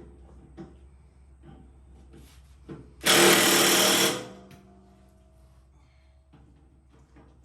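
Impact wrench hammering on a mower blade bolt in a burst of about a second, about three seconds in, with another burst starting right at the end; light metal clicks and knocks of handling before it.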